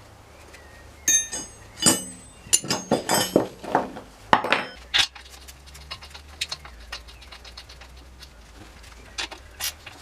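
Metal hand tools clinking and clattering against metal parts, a quick run of sharp ringing clinks in the first half, then a few lighter clicks.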